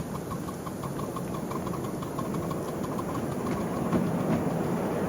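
Miniature railway train running, a steady rumble with a quick run of even clicks, about five a second, that stops about four seconds in.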